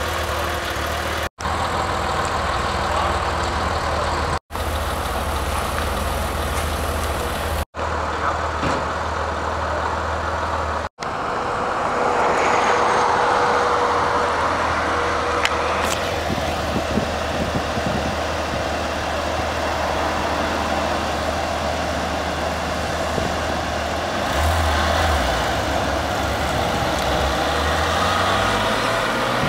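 Porsche 997 911 GT3's flat-six engine idling with a steady low note, cut off briefly four times in the first eleven seconds. Near the end the engine note climbs in pitch as the car pulls away.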